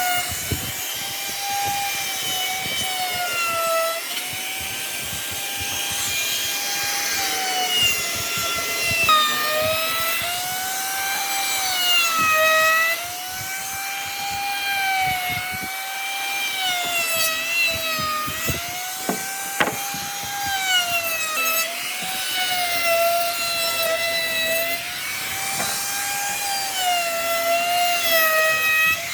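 Electric power tool motor whining while working wood, its pitch sagging and recovering every few seconds as it is pushed into the cut, with scraping and light knocks from the wood.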